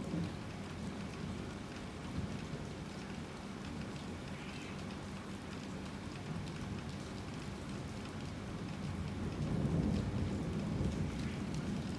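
Heavy rain falling steadily, with a low rumble of thunder building about eight seconds in and peaking near ten seconds.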